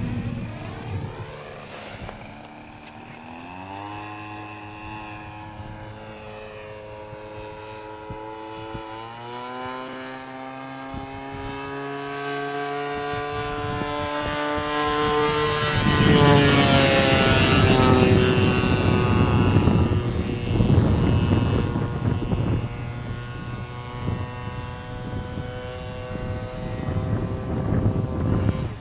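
Turnigy 30cc single-cylinder two-stroke petrol engine of an RC Yak-54 model aeroplane in flight, its propeller note rising in pitch twice early on, then growing louder to a peak a little past halfway where the pitch drops as the plane goes by, and easing off towards the end.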